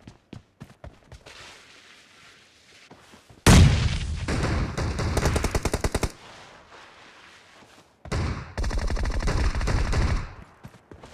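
Video-game automatic gunfire. A few light clicks come first. About three and a half seconds in there is a loud shot, followed by a rapid burst of about two seconds, and a second rapid burst of about two seconds near the end.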